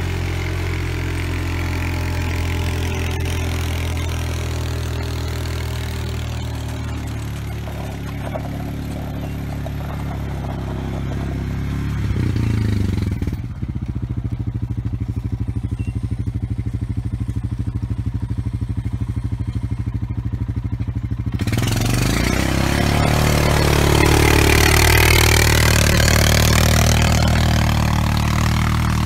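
Off-road utility vehicle's engine running under load while it pulls a land planer through dirt, with scraping and clatter from the blade. The engine surges about twelve seconds in, then settles. About twenty-two seconds in it revs up again with a gliding whine, before easing back.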